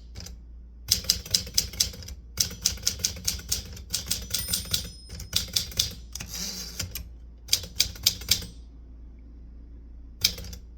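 Typewriter keys struck in quick bursts of several keystrokes with short pauses between, a brief sliding noise about six and a half seconds in, and a single keystroke near the end.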